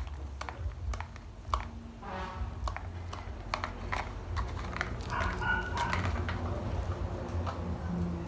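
A Classic American Bully puppy at play: scattered sharp clicks and taps throughout, with short pitched vocal sounds about two seconds in and again about five seconds in.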